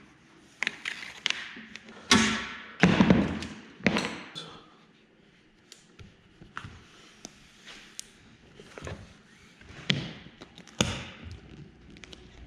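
Handling noises on a workbench: scattered taps, clicks and light thumps, with a louder rustling, scraping stretch in the first half as parts are worked by hand.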